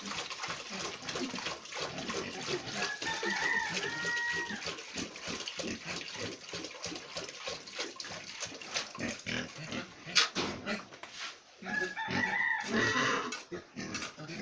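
A rooster crowing twice, about three seconds in and again near the end, each crow a held call. Many short knocks and scrapes go on throughout.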